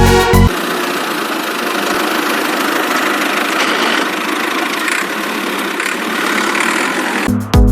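Music cuts off about half a second in, then a small motor runs steadily with an even buzzing hiss, until the music comes back near the end.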